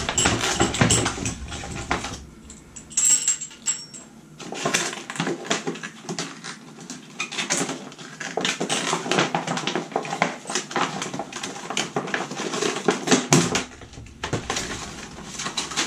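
Irregular crackling, rattling and clicking of a plastic shower remodel plate and its packaging being handled.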